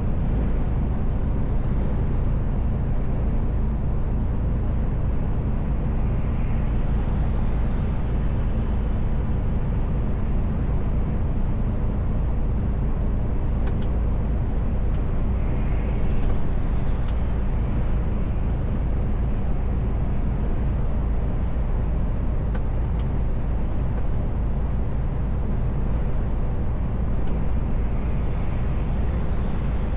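Inside the cab of a Mercedes Actros L truck on the move: a steady low drone of engine and road noise, with brief slight swells about halfway through and near the end.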